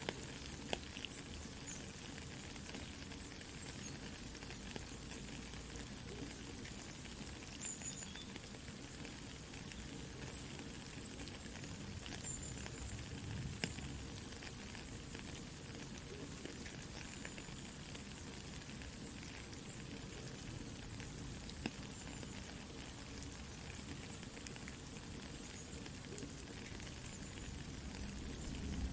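Soft steady rain mixed with a crackling campfire, with small scattered pops and snaps over the even hiss.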